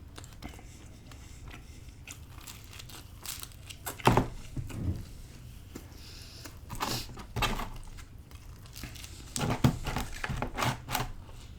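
Close-miked eating sounds: pizza being bitten, torn and chewed, with scattered crinkling and rustling, in irregular short bursts.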